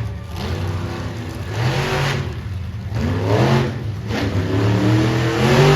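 Monster truck engine revving hard in about three rising surges, the last and loudest near the end.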